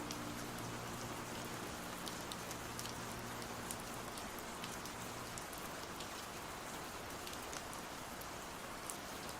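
Steady rain falling, an even hiss with scattered drops ticking. A low held note left over from the music fades away about halfway through.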